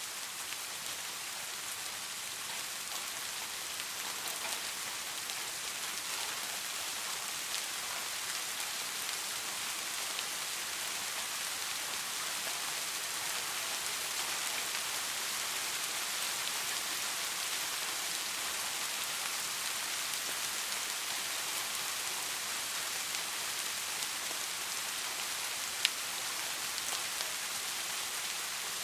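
Steady rain falling and pattering on a surface, an even hiss full of fine drop ticks. One sharp drop tick stands out near the end.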